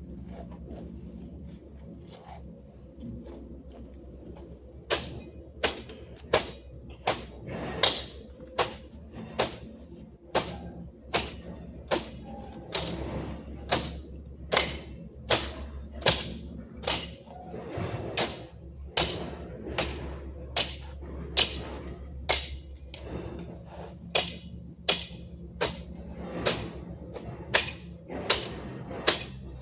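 Repeated sharp strikes of a hand tool chopping or cutting in yard work, about one every three-quarters of a second, starting a few seconds in and keeping a steady rhythm.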